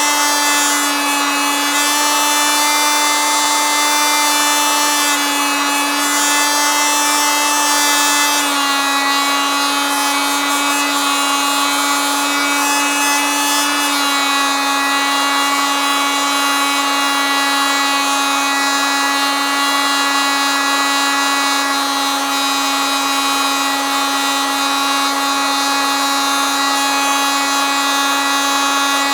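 Oscillating multitool running continuously, a steady buzzing drone. Its pitch drops slightly about eight seconds in.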